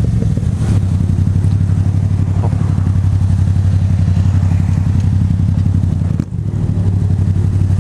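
Yamaha MT-07's 689 cc parallel-twin engine running loud and deep under way at steady revs, with a short dip about six seconds in.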